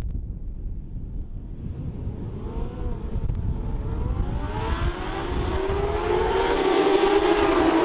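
Racing motorcycles from the Pre-Injection class, carburetted race bikes, approaching: their engine note comes in about two seconds in and grows steadily louder, the pitch rising and falling with the revs. Wind rumbles on the microphone at the start.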